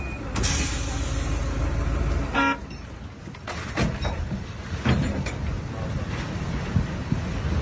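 A short horn blast about two seconds in, over a steady low rumble, with a few sharp knocks a little later.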